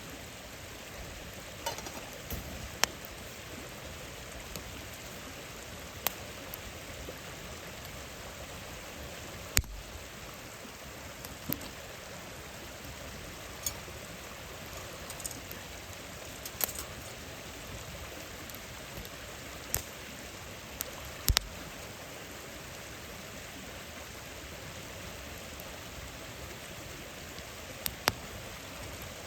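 Wood campfire burning: a steady hiss with sharp crackles and pops every few seconds at irregular intervals, the loudest pops about ten and twenty-one seconds in.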